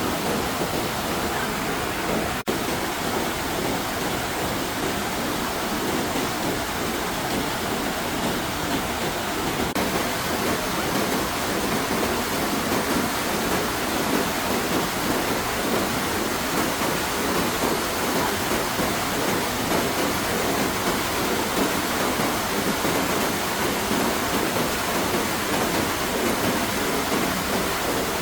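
Steady, dense rush of water, with no break except a momentary dropout about two and a half seconds in.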